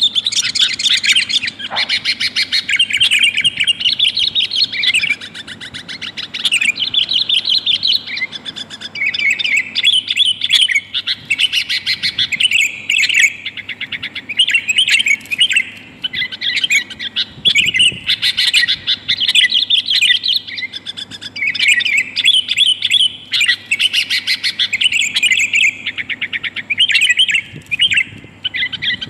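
Sooty-headed bulbul (kutilang) calling in a near-continuous run of quick, chattering notes with only brief pauses. It is offered as a female's call to lure males in.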